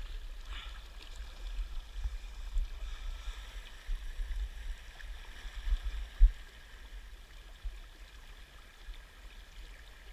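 Steady rush of river water, with uneven low buffeting on the microphone and one sharp thump a little after six seconds in.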